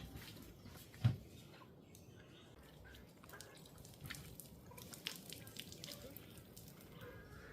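Kitchen clatter: one dull thump about a second in, then scattered light clicks and taps.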